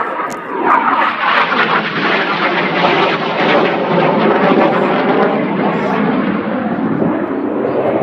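Fixed-wing aircraft flying past, its loud engine noise building in just before and holding steady for several seconds.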